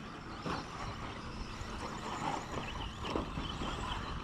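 Radio-controlled short course trucks running on a racetrack: a steady mix of small motors and tyres, with a couple of brief knocks.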